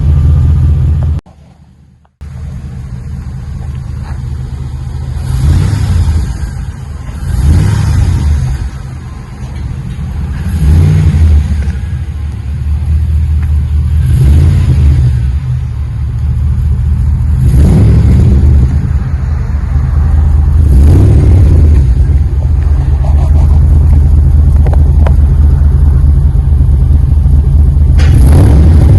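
LS3 V8 running through a custom stainless dual exhaust with an X-pipe and Magnaflow Magnapack mufflers: a deep, smooth rumble at idle, revved in short blips several times. The sound drops out for about a second near the start.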